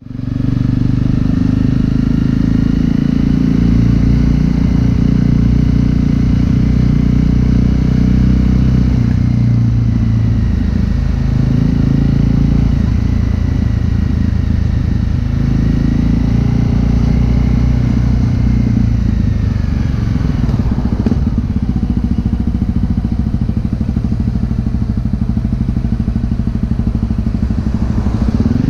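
Honda CRF250L's single-cylinder four-stroke engine running through a Yoshimura exhaust, its note shifting with the revs and dropping in pitch about twenty seconds in.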